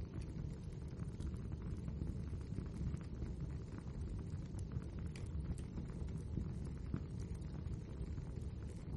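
Wood fire burning in a fireplace: a steady low rumble with many small, sharp crackles and pops scattered throughout.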